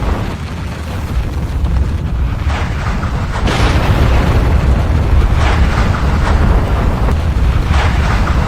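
Volcanic eruption: a deep, continuous rumble, with several louder surges of rushing noise that swell up every second or two.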